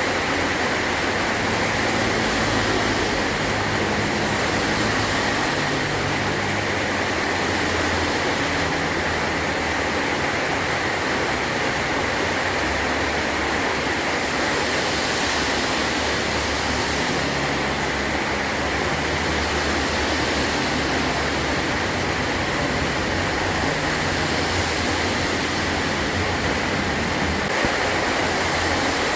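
Heavy rain drumming steadily on a metal roof, with a low rumble coming and going underneath.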